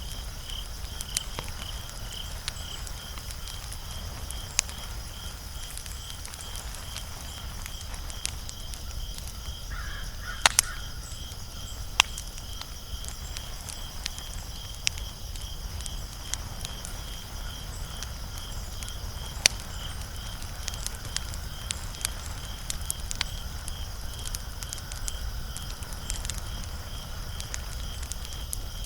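Wood fire crackling, with scattered sharp pops and a short cluster of louder pops about ten to twelve seconds in. A rapid, even, high-pitched pulsing chirp runs steadily behind it, and a brief animal call sounds about ten seconds in.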